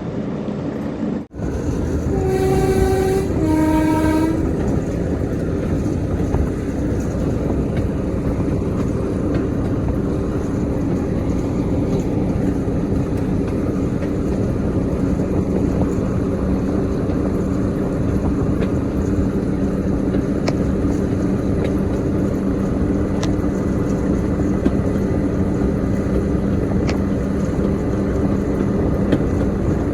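Diesel locomotive sounds its two-tone horn, a short higher note then a lower one. Its engine then runs loud and steady under power.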